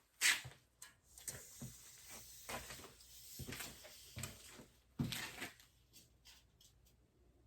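A few irregular knocks, clunks and rustles of objects being handled and set down, the loudest about five seconds in.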